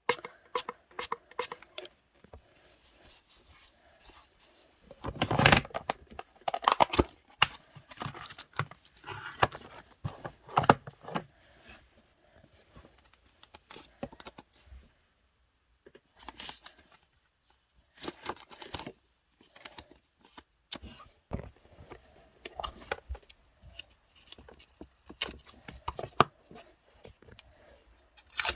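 Objects being handled: irregular clicks, scrapes and rustles in short bursts with pauses, the loudest about five seconds in.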